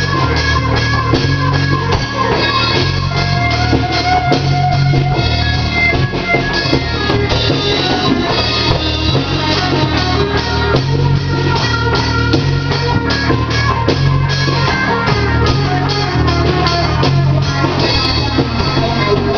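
Stoner rock band playing: distorted electric guitars over a steady drum kit beat.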